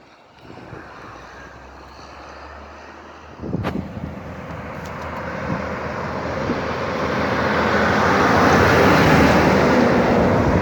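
A road vehicle approaching and passing, its engine and tyre noise swelling steadily to a peak near the end. A sharp knock sounds about three and a half seconds in.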